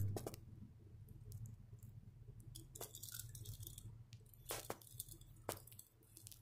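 Faint handling noise: soft rustles and a few light clicks as small plastic toy trains are moved by hand on a fabric blanket, over a low steady hum.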